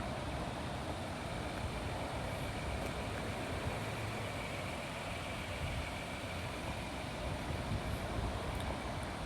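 Steady low rumble of vehicle noise, with a faint high tone partway through.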